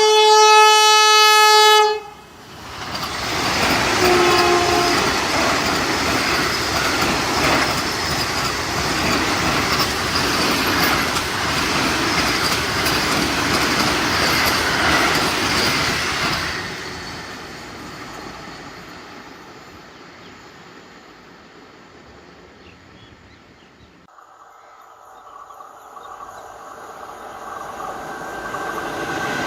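Indian Railways train horn sounding one loud, long blast for about two seconds, with a shorter, lower horn note a couple of seconds later. A train then passes at speed, wheels clattering over the rail joints, and the noise fades away after about sixteen seconds. Near the end another train's sound starts to rise.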